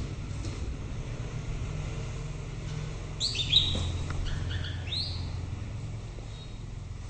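White-rumped shama giving a short burst of song about three seconds in: a quick run of clear whistled notes, several sliding down in pitch, over a steady low rumble.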